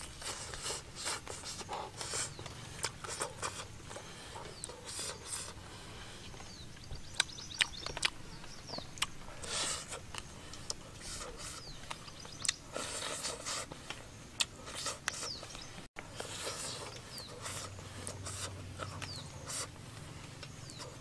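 Close-up eating sounds: wet chewing and lip smacking on grilled fish roe, in irregular clusters of short clicks and smacks.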